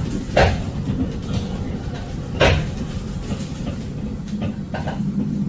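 Steady low rumble of a train, with two sharp knocks about two seconds apart.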